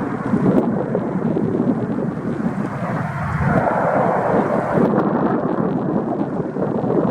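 Strong wind buffeting the microphone, mixed with the rumble of the Antonov An-12BK's four Ivchenko AI-20M turboprop engines.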